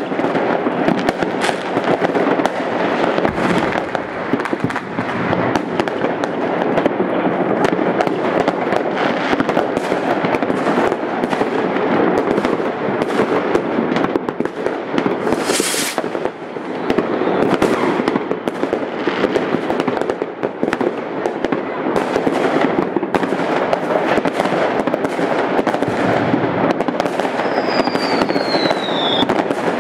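Many fireworks going off at once: a continuous mass of overlapping bangs and crackles with no break. About halfway through there is a brief hiss, and near the end a short falling whistle.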